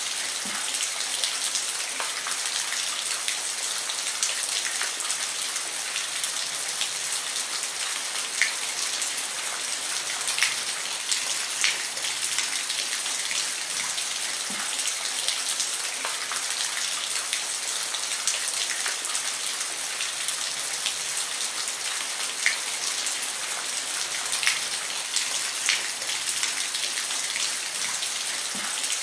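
Steady rain falling on a roof: a constant hiss with individual drops ticking sharply every second or two.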